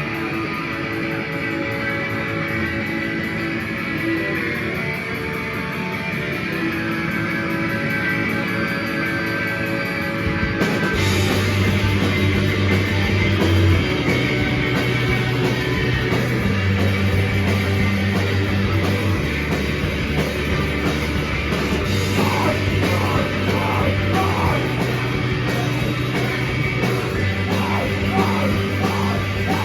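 A rock band playing live: ringing electric guitar chords for about ten seconds, then the drums and bass come crashing in together and the full band plays on loudly.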